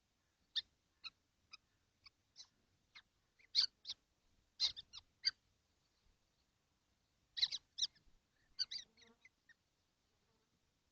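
Common kestrel nestlings calling in the nest box: short, sharp, high calls in an irregular series, several coming in quick succession in two bursts.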